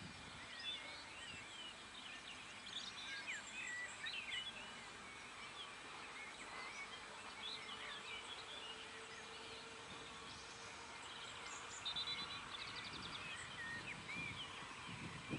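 Birds chirping and twittering faintly over quiet outdoor background noise, with a quick trill about two-thirds of the way through.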